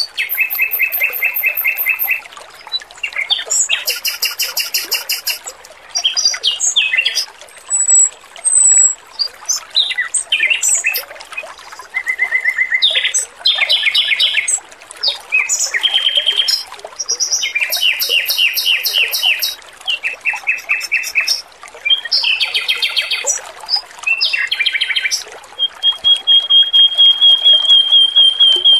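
Male Pekin robin (red-billed leiothrix) singing a run of fast, high trilled phrases with short gaps, ending on a long even trill. A steady trickle of running water runs underneath.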